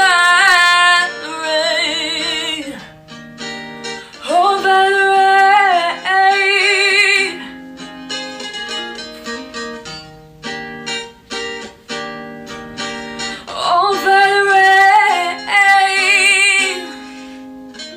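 A female voice singing long, wavering held notes without clear words over strummed acoustic guitar, with stretches of guitar alone in between.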